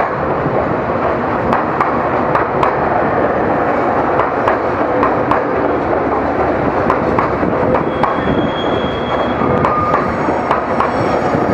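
Local electric train running along the platform: a steady rumble of wheels on rail with irregular clacks over the rail joints, and brief thin wheel squeals late on.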